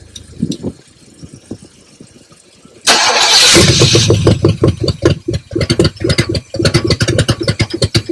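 A 1972 Buick Riviera's 455 V8 being started, with part of its exhaust left off. About three seconds in it bursts into sound, then runs in loud, uneven pulses, sputtering rather than settling into an idle, and cuts off suddenly at the end.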